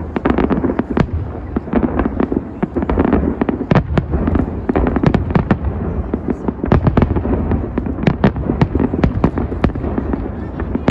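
Large fireworks display: a rapid series of shell bursts and crackling bangs, several a second, over a continuous low rumble.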